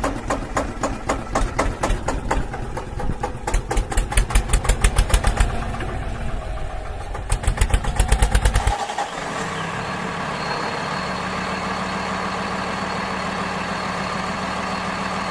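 Tractor engine chugging with quick, even beats that grow louder twice. About nine seconds in it changes abruptly to a steady, even hum.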